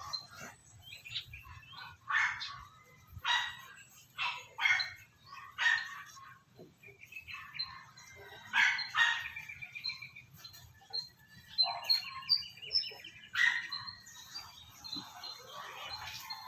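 Persian cat crying out in a string of short, loud meows, about one a second, with thin high chirping calls near the middle: a cat protesting being bathed.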